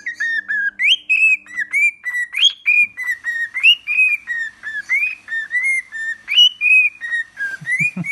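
Pet bird whistling a rapid, unbroken string of short clear notes, many of them sliding upward, as it mimics a tune it has been taught. A short run of low clicks comes near the end.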